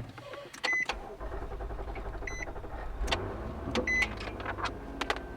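SUV engine starting about a second in and then running with a steady low rumble, while a short electronic warning chime repeats about every second and a half.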